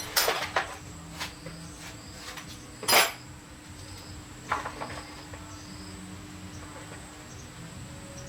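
Metal tools and parts being handled: about half a dozen sharp clinks and knocks, the loudest about three seconds in, over a steady faint hum and a thin high-pitched tone.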